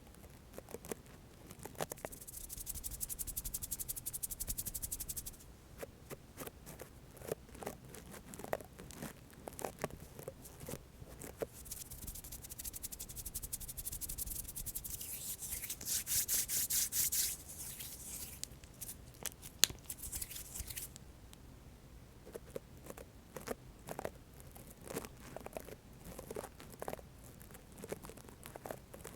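Hands rubbing together close to the microphone for ASMR: long stretches of dry swishing hiss, broken by scattered small taps and clicks.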